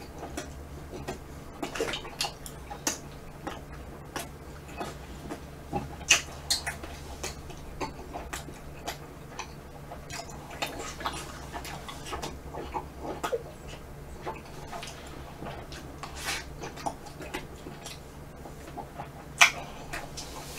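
Close-miked chewing and lip smacks of someone eating chewy mochi ice cream and spoonfuls of vanilla ice cream: a string of soft, irregular clicks and smacks, with a few louder ones.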